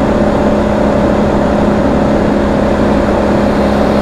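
1983 Honda Sabre VF750S's V4 engine running at a steady cruise with an even drone, under steady wind and road rush.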